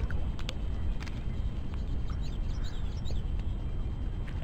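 A bird gives a quick run of short, high rising chirps around the middle, over a steady low rumble. A few sharp clicks, a camera shutter, sound in the first second.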